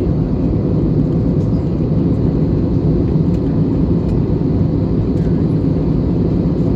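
Steady cabin noise of an Airbus A320neo cruising: an even low rumble of engines and airflow heard from inside the passenger cabin, unchanging throughout.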